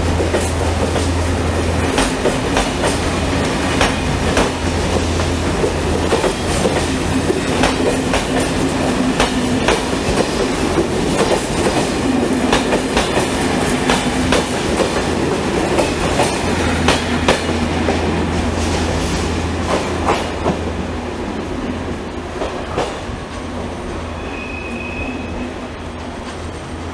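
A train rolling slowly over rail joints and points, with irregular clicks and knocks from the wheels over a steady low hum. A brief high wheel squeal sounds near the end as the noise fades away.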